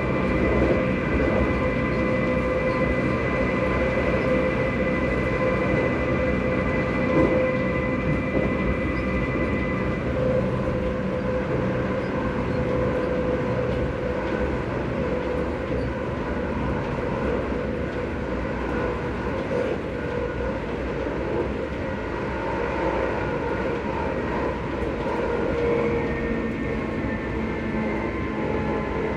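Electric train running at speed, heard from inside the carriage: continuous wheel-and-rail rumble with the steady whine of its VVVF traction inverter and motors. The high whine cuts out about ten seconds in, and a new set of whine tones comes in near the end.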